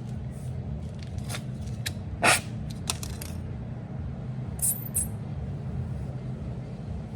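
Short metallic clicks and scrapes from tools and copper tubing being handled, over a steady low hum, with a brief hiss near the middle.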